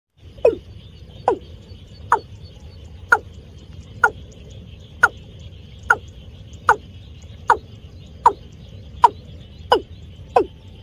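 Watercock (cúm núm) calling: a regular series of short notes, about one every 0.8 seconds, each falling sharply in pitch. The call is used as a lure for trapping watercocks. A steady high hiss runs underneath.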